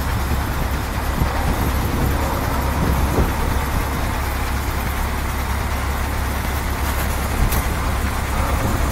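Truck running with a steady low engine drone and road noise, with a brief click about seven and a half seconds in.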